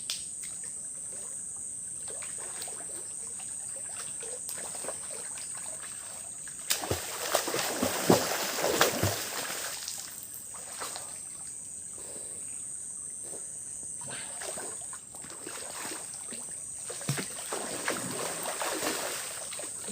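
Water splashing in a river, loudest for a few seconds about seven seconds in and again near the end, over a steady high buzz of insects.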